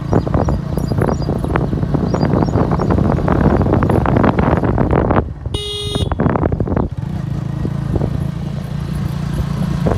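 Motorcycle riding along, its engine running steadily under heavy wind rushing over the microphone. A vehicle horn beeps once briefly about halfway through.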